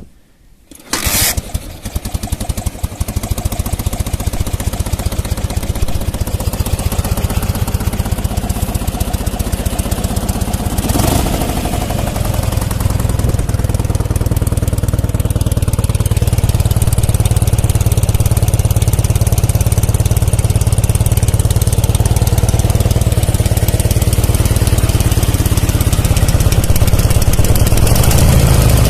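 Dnepr MT-9 motorcycle's flat-twin engine starting about a second in, then running steadily, with one brief rise in revs partway through.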